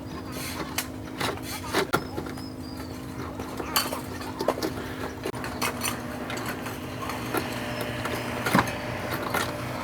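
Irregular sharp metallic clinks and knocks, like tools and parts being handled, over a steady hum.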